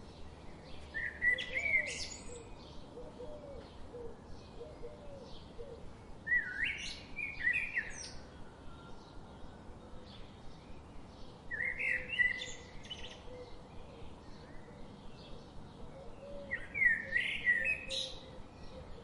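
A songbird singing a short phrase four times, about every five seconds, over fainter scattered chirps from other birds and a soft background hiss.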